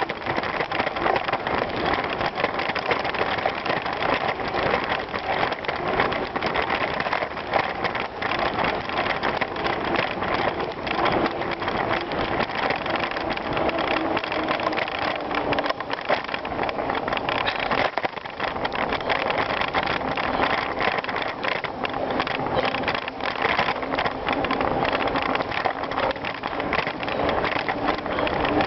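Bicycle riding over a gravel trail: a steady, dense noise of the tyres rolling on gravel, with a fast, rapid crackle running through it.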